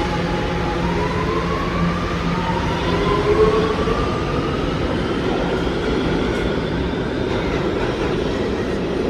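New York City subway train (an R211A) pulling away, its propulsion motors whining in several rising tones over a steady rumble of wheels on rail.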